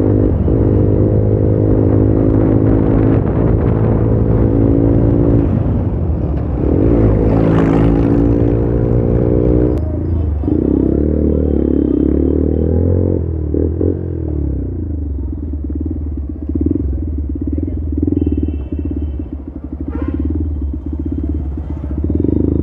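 Bajaj Pulsar motorcycle engine running as it is ridden, holding a steady pitch, then easing off about ten seconds in and running at low revs with a slow, even pulse as the bike rolls slowly along a street.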